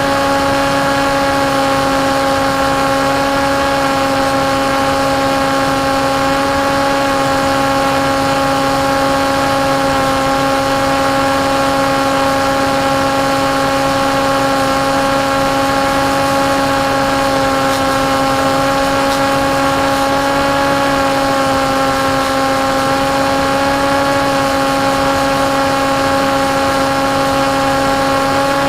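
Electric motor and propeller of a KT Wing foam flying wing running at a steady cruise throttle: an even, buzzing whine whose pitch holds nearly constant with slight dips, over a rush of air noise.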